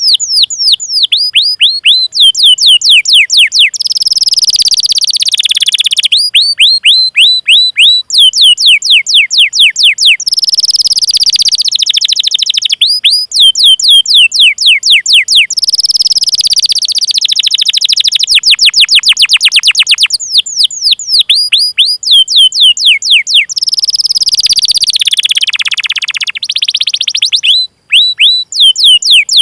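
Domestic canary singing loudly: runs of quick, high downward-sweeping 'cuit cuit' chirps, several a second, alternating with rapid rolling trills.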